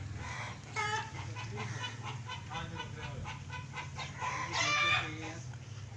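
Chickens clucking in quick short calls, with a sharp call about a second in and a longer, louder call near the end, over a steady low hum.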